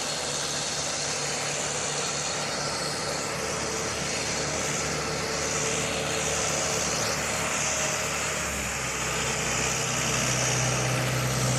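Motor vehicle engine running steadily; about eight and a half seconds in its note drops lower and gets a little louder.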